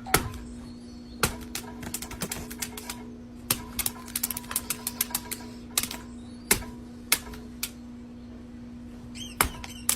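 Irregular sharp clicks and taps, often in quick clusters of several a second, over a steady low hum.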